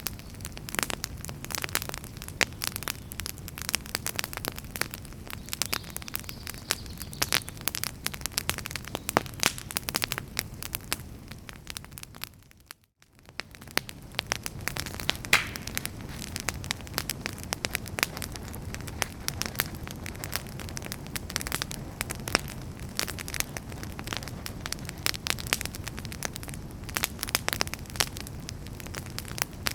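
Wood fire in a fireplace crackling and popping with many irregular snaps over a low steady rush of flame. About 13 seconds in, the sound fades out for about a second and then fades back in.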